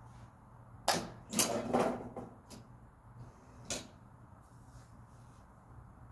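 Golf ball struck with a club: a sharp click about a second in, then a brief rushing swish, and another sharp click a few seconds later.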